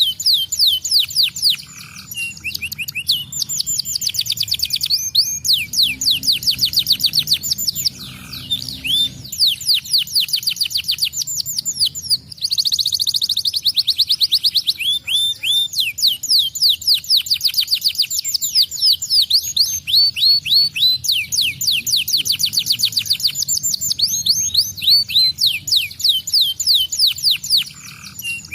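Domestic canary singing a fast, continuous song: long trains of rapid, high-pitched sweeping notes, many a second, broken by brief pauses between phrases.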